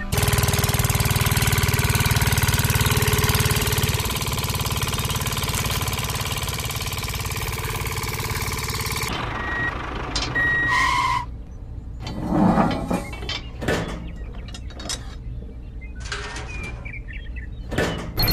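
Engine running steadily, cutting off abruptly about halfway through, followed by scattered short knocks and brief tones.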